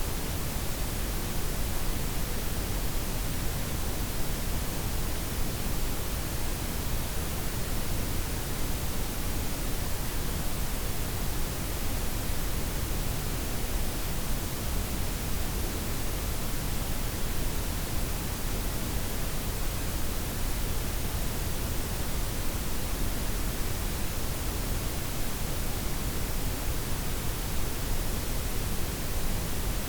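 Steady blend of white, pink and brown noise: an even, unbroken hiss with its weight in the low end and the highs softened.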